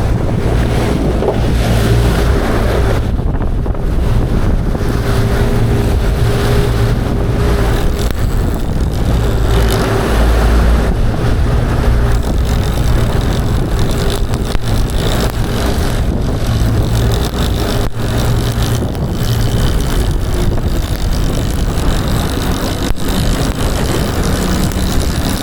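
Boat engine running steadily, with a constant low hum, and wind noise on the microphone.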